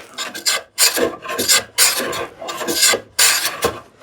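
Hand plane cutting across end grain in short, quick strokes, a dry rasping shave repeated about two times a second.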